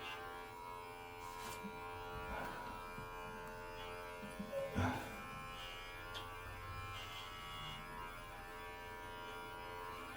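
Electric pet hair clipper running steadily, a faint even buzz, with a soft knock about halfway through.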